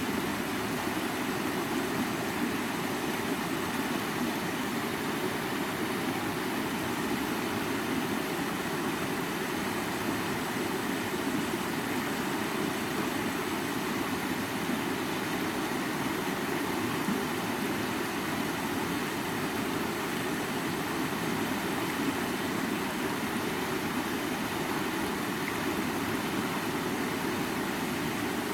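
River water flowing: a steady, low rush of moving water.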